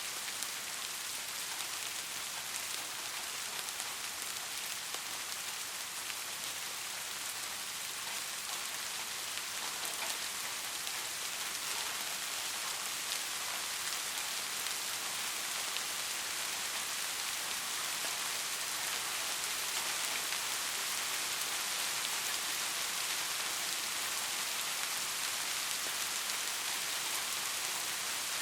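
Steady rain falling on a surface, a dense hiss of drops with fine ticks and no break.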